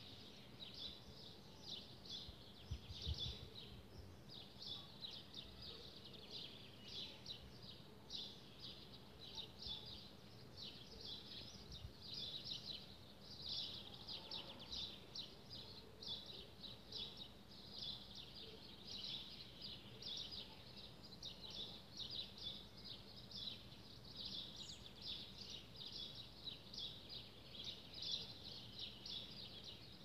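Small garden birds chirping continuously, a dense run of short high chirps with no pause, over a faint steady low hum. A brief low rumble about three seconds in.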